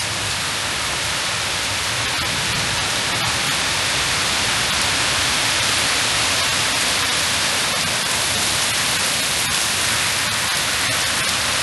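Heavy rain pouring down in a steady, dense hiss from a summer thunderstorm downpour, with scattered sharper drop ticks.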